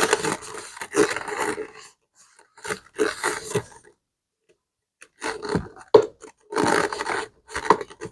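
Scrubbing strokes on a leather bag, coming in three bursts with short pauses between them.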